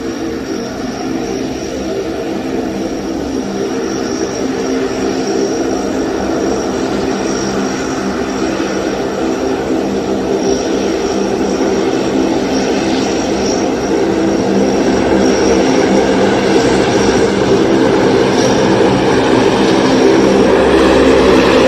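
Lockheed C-130E Hercules in flight, its four Allison T56 turboprop engines giving a steady multi-toned propeller drone with a thin high whine over it, growing steadily louder.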